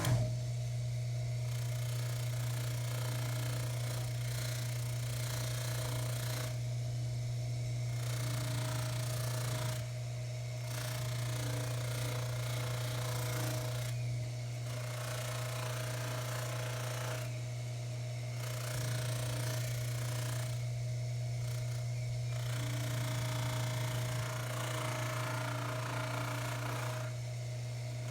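Baldor 353T dental lathe running steadily with its buffing wheel, a pipe stem pressed against the wheel off and on so that a rubbing hiss comes and goes over the motor hum.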